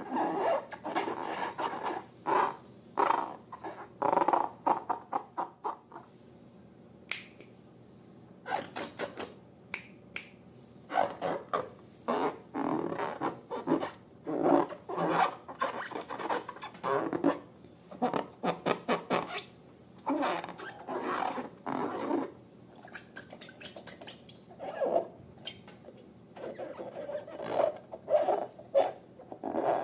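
Slime being squeezed and pulled by hand: irregular wet squelches and sticky crackling in bursts, with short pauses between them.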